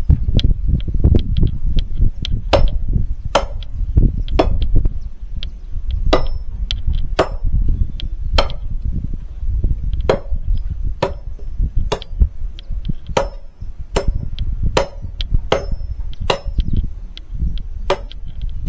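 Firewood logs being chopped by hand, with sharp blade strikes into the wood about once a second, steady and unhurried, over a low rumble.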